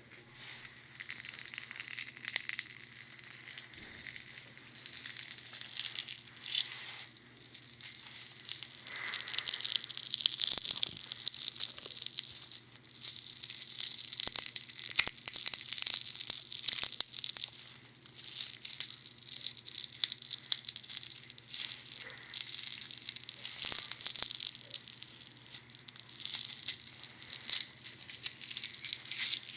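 Funny Foam (a foaming bath toy) worked against the ears of a binaural dummy-head microphone: dense, fine crackling and popping close to the mic. It swells and fades in waves, with scattered sharper clicks.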